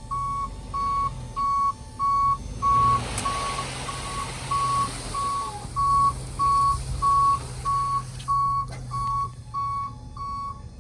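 A vehicle's back-up alarm beeping steadily, about two beeps a second, over a low idling engine. A rushing noise rises about two and a half seconds in and stops sharply near the end.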